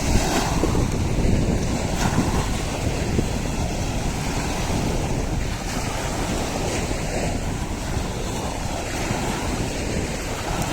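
Wind buffeting the microphone over a steady outdoor rushing noise.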